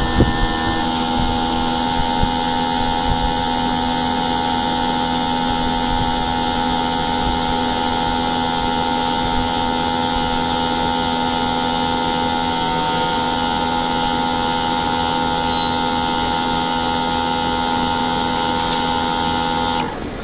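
Inverter air conditioner unit running with a steady machine hum made of several fixed tones. It stops abruptly near the end.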